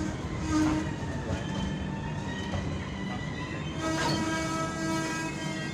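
Passenger train coach rolling slowly along a platform, with a steady rumble from the running gear. About four seconds in, a steady pitched whine sets in and holds.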